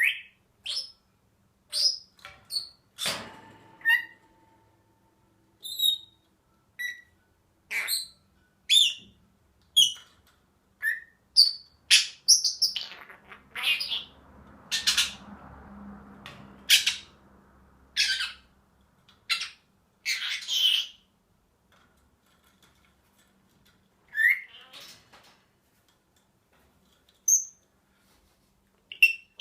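Senegal parrot giving short, sharp chirps, whistles and squawks one after another at an irregular pace, with a few seconds' pause near the end.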